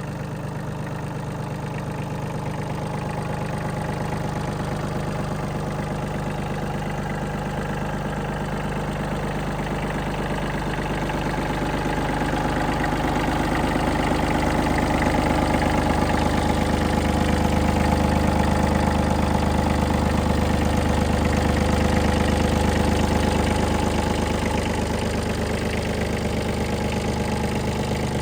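Iseki TM15 compact tractor's three-cylinder diesel engine running steadily, growing louder through the middle and easing off a little near the end.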